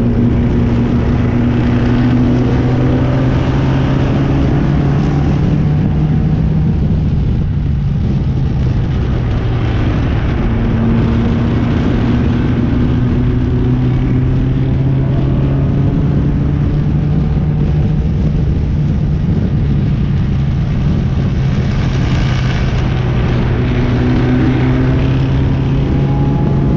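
Triumph TR4 race car's four-cylinder engine heard from the open cockpit, running at steady part throttle at pace-lap speed, its pitch slowly rising a few times as the car gathers speed, with wind and road noise.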